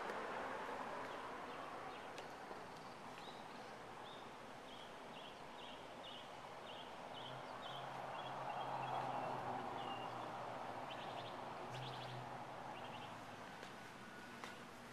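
Outdoor ambience: a bird chirping a quick run of short, evenly repeated high notes over a soft background hiss that swells and fades.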